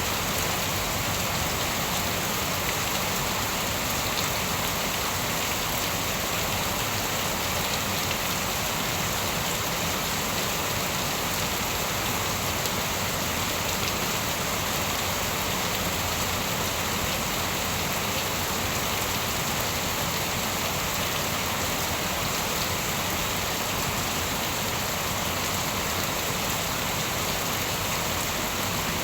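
Steady, even rain falling on a surface, with no thunder or breaks.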